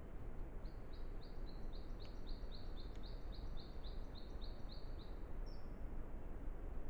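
A bird singing a fast run of repeated short, high, down-slurred notes, about three a second for some four seconds, ending on one higher note, over a steady background hiss.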